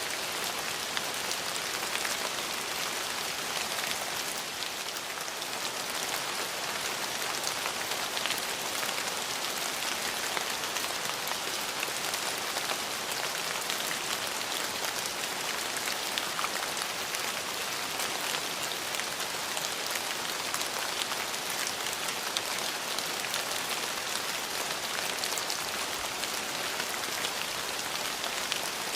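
Steady rain falling on hard surfaces, a dense even patter of many individual drops.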